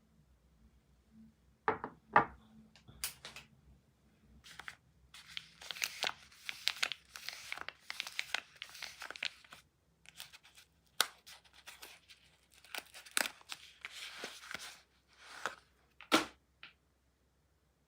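Soap wrapper being torn open and crinkled by hand: a few sharp snaps, then long stretches of irregular tearing and rustling.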